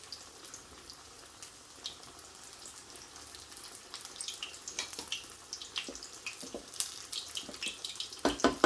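Breaded chicken katsu frying in shallow sunflower oil in a frying pan, sizzling steadily with scattered crackles and pops. Near the end comes a quick run of sharp clacks.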